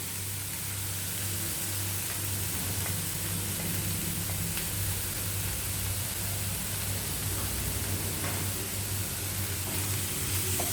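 Chopped bacon and sausage pieces sizzling steadily as they fry in the bacon's own rendered fat, with a steady low hum underneath.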